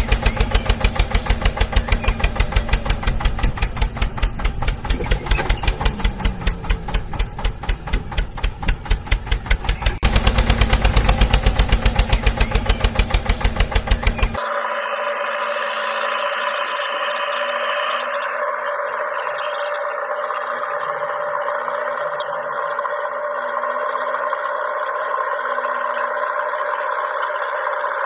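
Tractor engine chugging in an even beat of about five pulses a second, with a deep low end. About 14 seconds in it cuts off abruptly into a smoother, steady drone that has no low thump.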